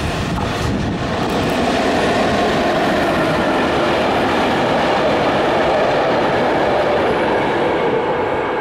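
Freight train behind an FS E.655 electric locomotive passing close by. The noise builds over the first second or two as the locomotive goes by, then holds steady as flat wagons loaded with rails run past on their wheels.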